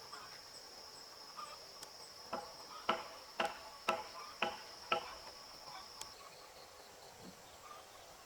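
An insect trilling on one steady high note, which stops about six seconds in. Over it come six sharp, slightly ringing knocks about half a second apart, the loudest sounds here.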